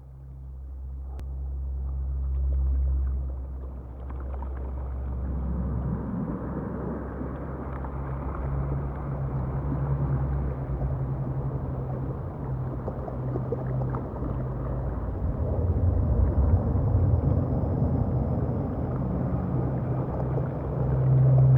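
Seaside ambient noise: a rumbling rush over a steady low hum, swelling about five seconds in and growing louder toward the end.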